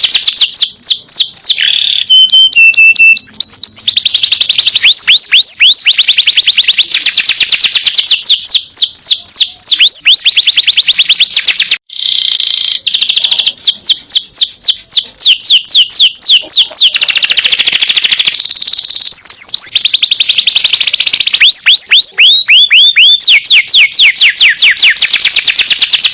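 Domestic canary singing: long rolling trills of rapid, repeated down-sweeping notes, the trills changing speed from phrase to phrase, with a brief break about twelve seconds in.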